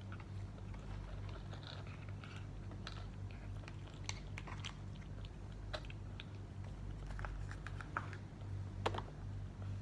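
Scottish Fold cat chewing and biting its food: irregular small wet clicks and crunches, one sharper click near the end, over a steady low hum.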